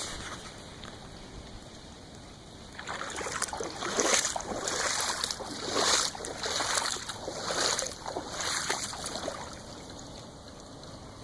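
Water splashing in a run of surges about once a second, starting about three seconds in and dying away near the end, over a steady low hiss.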